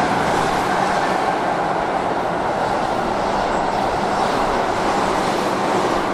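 Keihan 8000 series electric train running alongside the platform, giving a steady rumble of wheels on rail and running gear.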